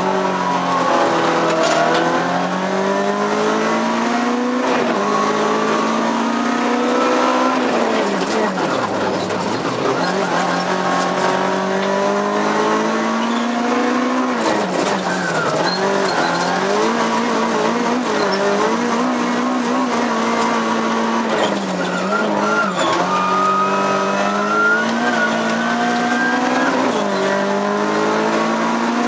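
Rally car engine heard from inside the cabin, driven hard: its pitch climbs steadily in each gear and drops sharply at every gear change or lift for a corner, many times over.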